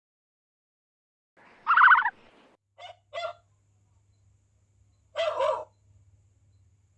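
Domestic poultry calling: a loud rattling call about a second and a half in, two short calls near three seconds, and another harsher call around five seconds. A faint low hum runs under the later calls.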